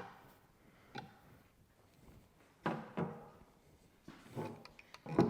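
A 5/8 wrench tightening fittings on an ARB twin air compressor: a handful of separate metallic clicks and knocks as the wrench and parts are handled, with short quiet gaps between them.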